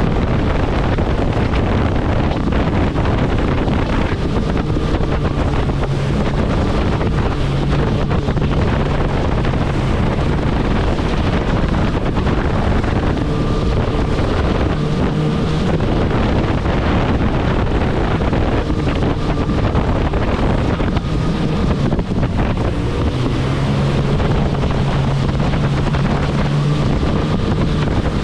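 Kawasaki jet ski running at speed, its engine hum fading in and out under heavy wind buffeting the microphone, with water rushing past the hull.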